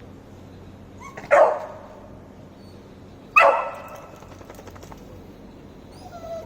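Beagle puppy giving two short, sharp barks about two seconds apart, the first falling in pitch: attention-seeking barks aimed at a cat.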